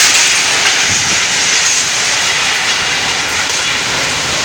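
Strong storm wind blowing hard, a loud steady rushing noise with no let-up.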